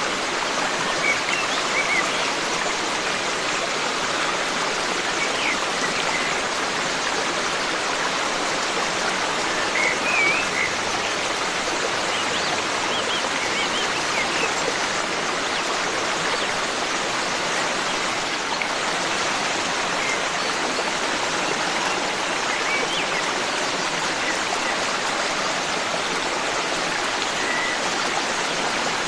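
Forest stream flowing steadily, a constant rush of running water, with faint, scattered bird chirps now and then.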